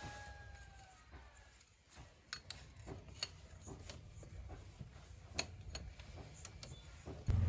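Scattered light clicks and taps over a low steady hum, with a loud low sound starting abruptly near the end.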